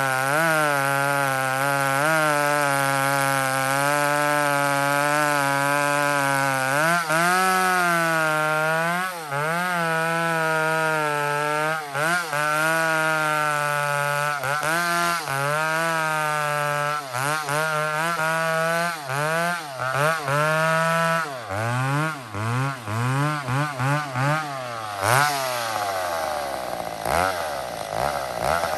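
McCulloch 850 two-stroke chainsaw cutting wood at high revs, the pitch dipping briefly now and then and recovering. In the last several seconds the revs fall and rise over and over as the throttle is worked.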